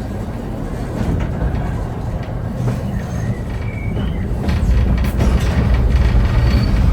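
Vintage steam train running along the track: a steady low rumble with scattered wheel clicks, growing louder about two-thirds of the way through, and a few faint short high-pitched squeaks.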